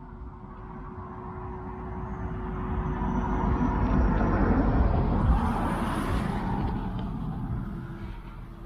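A motor vehicle passing by, growing steadily louder to a peak about five seconds in and then fading away.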